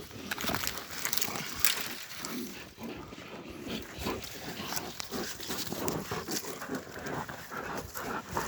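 A pack of dogs attacking a puma: a dense, irregular jumble of dog sounds in quick bursts, with panting.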